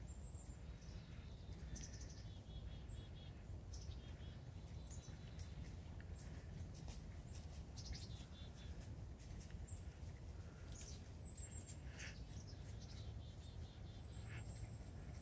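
Faint bird calls: scattered short chirps, a few quick trills and some thin high whistles, over a low steady rumble.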